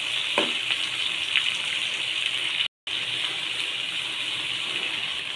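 Pointed gourd and sliced onion sizzling steadily in hot oil while being sautéed, with a brief gap a little past halfway.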